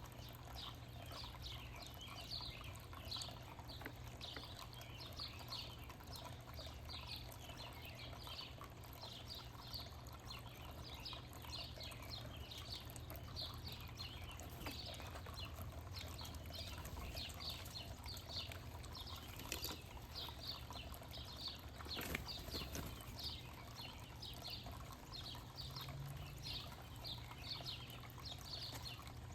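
Small backyard birds chirping steadily: a continuous run of short, high, downward-sliding chirps, two or three a second, over a steady low hum. A sharp knock stands out about 22 seconds in.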